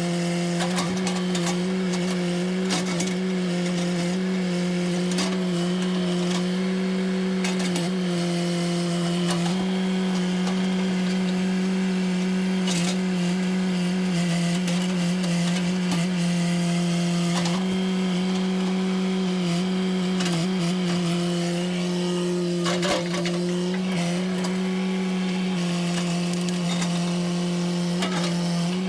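Engine running steadily at a near-constant speed, its pitch stepping slightly a few times, with scattered sharp cracks and knocks over it.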